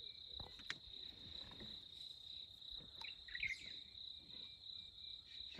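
Insects chirping in a steady, faint, high-pitched chorus, with a few soft clicks and a brief chirp about three seconds in.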